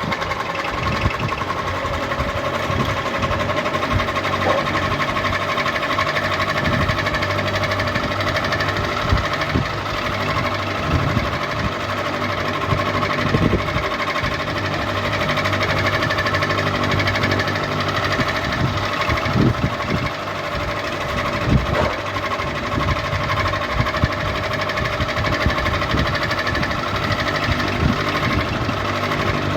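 Ceiling fan running: a steady motor hum with irregular clicks and rattles throughout.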